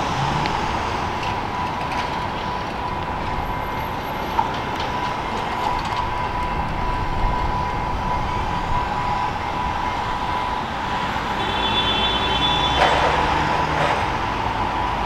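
EXO commuter train running on the rails: a steady rumble with a thin, steady high-pitched tone, a few sharp clicks, and a brief high-pitched sound near the end.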